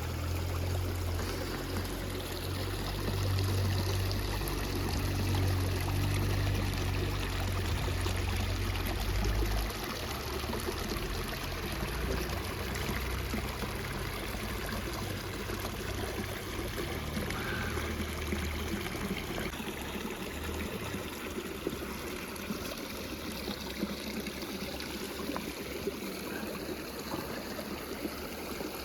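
River water flowing steadily. A deep low rumble runs underneath and stops abruptly about ten seconds in.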